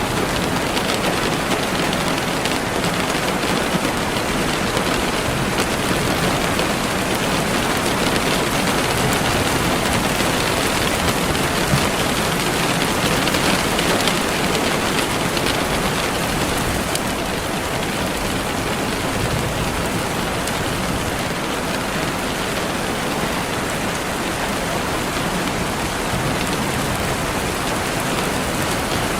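Steady, even rainfall, a dense hiss of drops with no individual strikes standing out.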